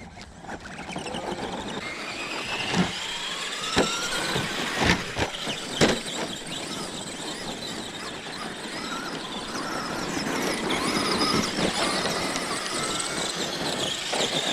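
An electric radio-control car motor whines as it speeds up, rising in pitch over the first few seconds, over a steady wash of tyre and ground noise. Four sharp knocks come about a second apart between roughly three and six seconds in.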